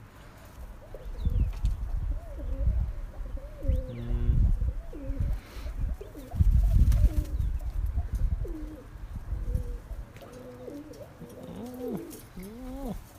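Domestic pigeons cooing: repeated rising-and-falling coos that come thicker near the end, over a low rumbling noise that is loudest in the middle.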